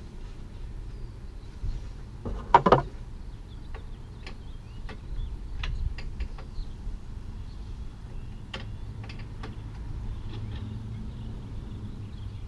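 Scattered sharp clicks and knocks of hand tools and car parts being handled, with a louder clatter about two and a half seconds in.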